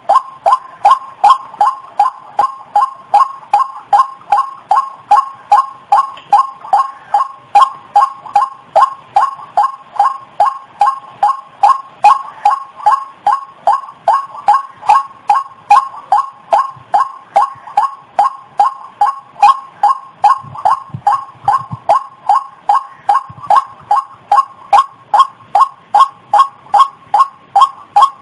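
White-breasted waterhen (ruak-ruak) lure call: a short, loud, pitched note repeated at an even pace of about two a second, without a break.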